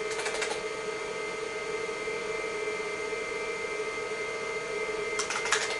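Steady whirring hum with a few fixed whine tones from a running IBM PC XT's fan and spinning MFM hard drive. Two short bursts of rapid clicking come over it, one right at the start and one about five seconds in.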